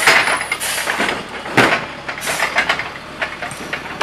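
Automated side-loader garbage truck running while its hydraulic arm lifts and empties a wheeled trash cart, with several knocks and clanks, the loudest about one and a half seconds in.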